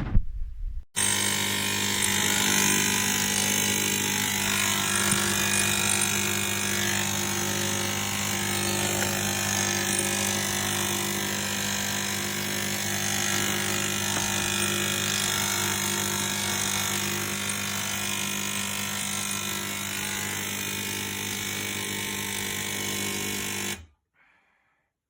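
Swan SK22110GRN retro espresso machine running with a loud, steady mechanical buzz that cuts off suddenly near the end, after a short burst at the start. It is far more noise than it should make, which the owner takes as a sign the machine is broken.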